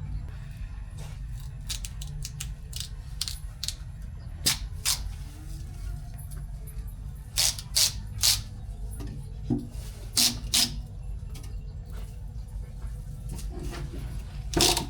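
Irregular sharp knocks and clicks of hard objects being handled, several in quick pairs, over a steady low rumble.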